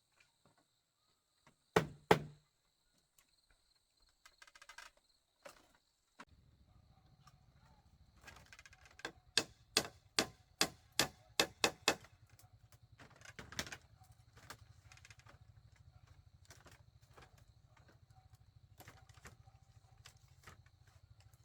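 Sharp knocks and taps of a tool striking bamboo, with a quick run of about two to three strokes a second in the middle, over a steady low hum that starts about six seconds in.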